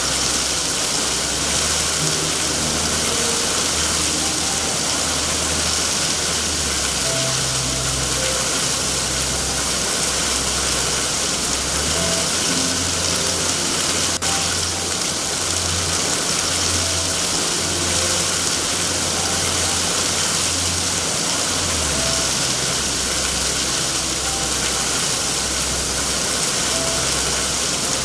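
Steady, dense rain hiss, with a low rumble underneath that shifts in level every second or so. A single faint click comes about 14 seconds in.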